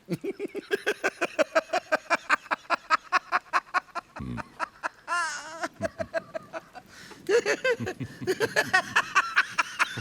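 A person laughing in long runs of rapid, even bursts, broken by a short wavering sound about halfway through.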